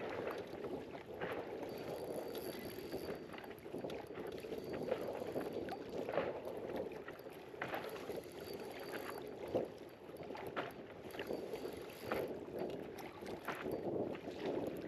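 Wind and small waves lapping against an inflatable fishing boat, a steady washing noise broken by a few short, irregular knocks and splashes.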